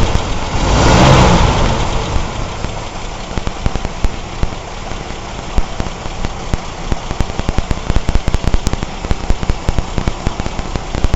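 Warmed-up car engine with points ignition idling roughly, with a louder surge about a second in and then frequent irregular sharp pops and ticks through the idle. The owner attributes the rough idle to a stuck exhaust valve, likely in one of the first three cylinders.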